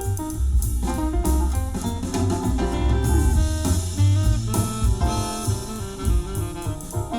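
Recorded music with a drum kit, heavy bass and melodic instruments, played back through a car audio system and heard in the car's cabin.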